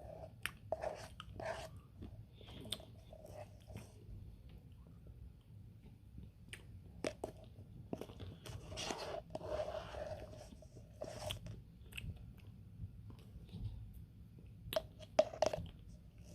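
Close-up eating sounds: a person chewing and crunching a partly frozen Dairy Queen Blizzard with candy-coated chocolate pieces, with scattered wet clicks and smacks and a louder cluster of crunches near the end.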